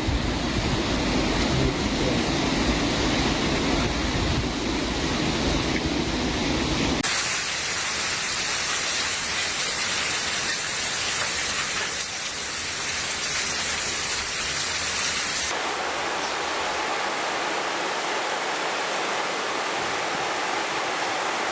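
Steady rushing noise of storm rain and water. The sound changes abruptly about seven and fifteen seconds in: first with a heavy low rumble, then a brighter hiss.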